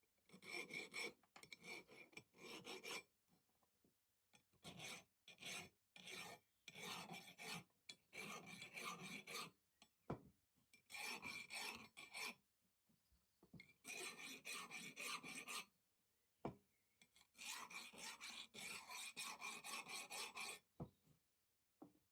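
Hand file rasping in repeated back-and-forth strokes, in runs of several strokes with short pauses between them.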